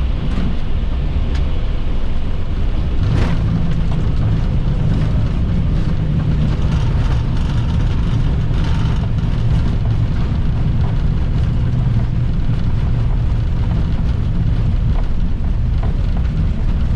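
Airbus A320-family cockpit during the landing rollout: a loud, steady low rumble of the wheels on the runway and the engines. A knock comes about three seconds in, after which the low rumble grows stronger for several seconds.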